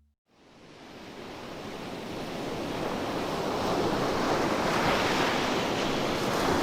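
Steady rushing roar of a waterfall. It fades in over the first few seconds and then holds at an even level.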